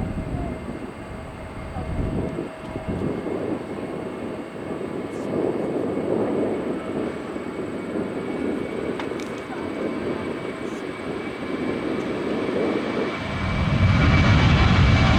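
Jet airliner engines in a steady distant roar, which grows much louder and fuller about 13 seconds in.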